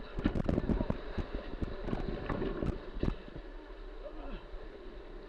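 Whitewater splashing on a kayak run, with many sharp knocks and slaps packed into the first three seconds, then a steadier rush of water and wind on the microphone.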